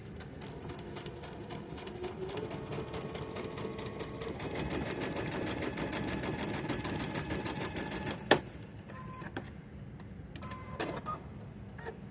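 Brother sewing machine stitching, its needle strokes making a fast, even ticking that picks up speed over the first few seconds. The machine stops about eight seconds in with a sharp click, followed by a few lighter clicks.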